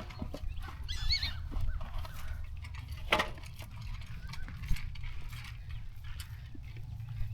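Poultry calling briefly about a second in, with a single sharp knock about three seconds in, over a steady low rumble.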